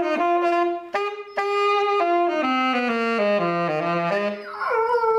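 Saxophone playing a slow run of separate held notes that step down in pitch, with a falling slide about four and a half seconds in.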